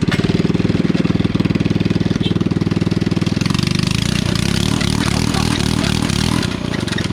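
A mini-bike's small single-cylinder engine running close by, steady with a rapid pulsing beat, easing off slightly near the end.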